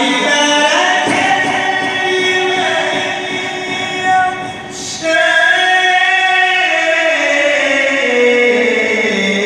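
A man reciting the Quran in a drawn-out, melodic chant. He holds long notes with pitch turns, breaks off briefly about four and a half seconds in, and slides slowly downward in pitch near the end.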